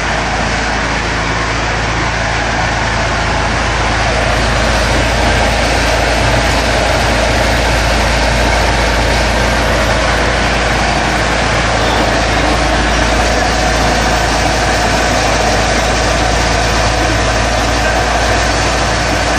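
ZMZ-406 inline-four petrol engine of a Moskva-2 motor boat running steadily through its new muffler, a little louder from about four seconds in.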